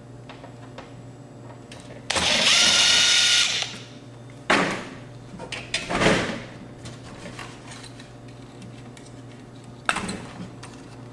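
A power screwdriver runs for about a second and a half with a steady whine, backing out a screw, followed by a few clunks and scrapes of metal parts being handled.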